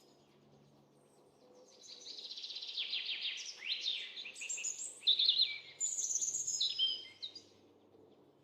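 Birds chirping and singing: a quick run of repeated trilled notes, then a mix of rising and falling whistled chirps, beginning about two seconds in and dying away near the end.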